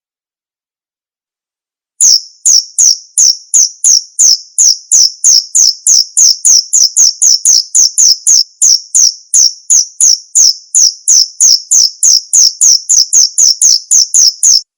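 Male cricket chirping: a steady train of short, high chirps, about three a second, starting about two seconds in after silence and stopping just before the end.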